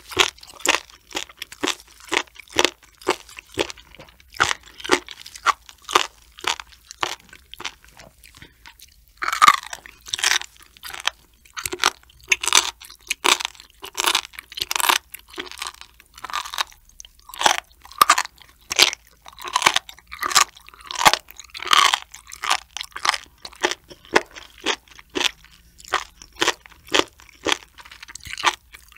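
Close-miked chewing of raw sturgeon spinal cord (the notochord), crunchy and rubbery bites of its cartilage at about two a second. The crunching grows louder from about nine seconds in.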